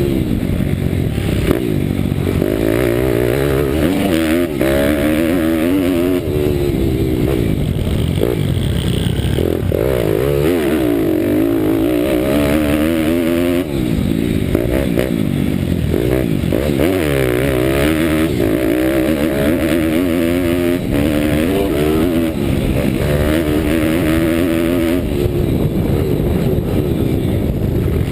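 Pit bike's Daytona Anima 190 cc single-cylinder four-stroke engine under hard riding, its pitch climbing and dropping again and again as it accelerates, shifts and backs off.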